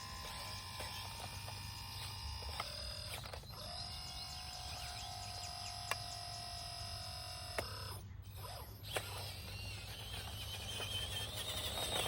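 Small electric motors and gearboxes of radio-controlled construction models whining as they work. The pitch holds steady for a few seconds, then steps to a new one. A few sharp clicks are heard.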